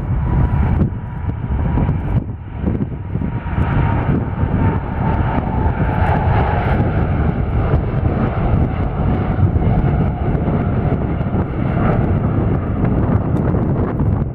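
Jet airliner's engines roaring as it passes, a steady rumble with a whine that slowly falls in pitch.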